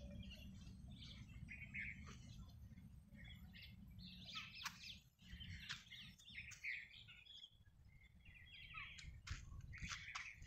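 Small birds chirping and twittering in short, scattered calls, busier in the second half, over a faint low rumble.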